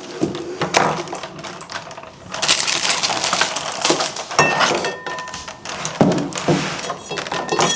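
Kitchen things being handled on a counter: repeated clinks and knocks of dishes and utensils, with scraping and rustling in between.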